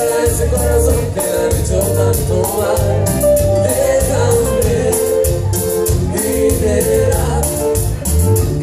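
Live cumbia band music on a steady, even beat, with bass and percussion under a wavering melodic lead line.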